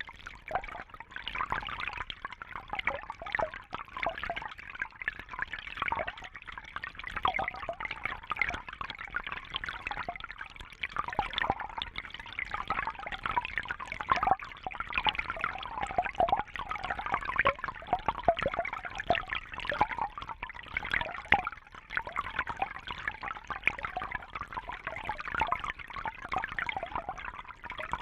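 Water trickling and bubbling steadily: a dense, irregular patter of small splashes and drips.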